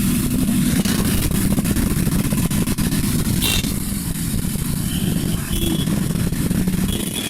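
Road traffic in a jam: motorcycle and car engines running steadily.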